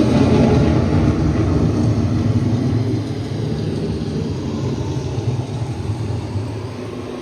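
Rolling thunder sound effect played over the attraction's speakers: a sudden deep rumble that slowly dies away over several seconds.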